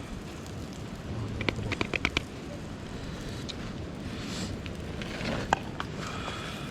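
Wood campfire crackling, with a quick run of sharp pops and clicks a second and a half in and one sharp pop later on.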